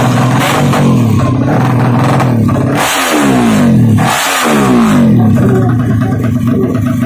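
Four-stroke drag-race motorcycle engine with twin mufflers, held on a high, unsteady rev at the start line. It is blipped sharply twice about three and four seconds in, the pitch sweeping up and dropping back each time.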